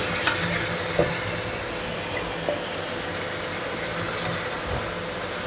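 Chicken pieces sizzling steadily in hot ghee in a wok, with a few light clicks of a metal spoon against the pan and bowl as pieces are lifted out; a steady low hum runs underneath.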